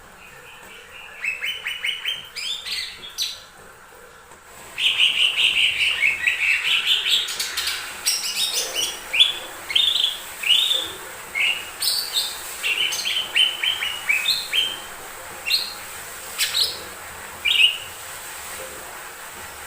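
Cucak ijo mini (lesser green leafbird) singing. It gives a quick run of chirps, then a long warbling phrase about five seconds in, followed by a string of separate short notes, each falling in pitch.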